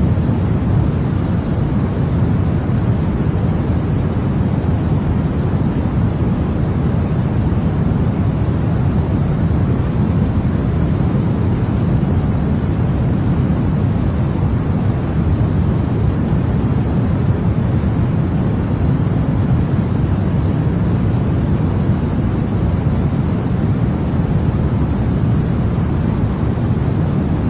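Continuous white-noise sleep sound for babies: an even, unbroken hiss that is deep and heavy in the low end and soft in the highs, with no changes or events.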